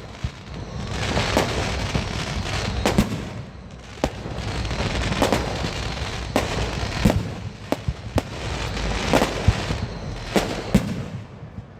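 Aerial fireworks going off: about a dozen sharp bangs spaced a second or so apart, over a steady crackling haze.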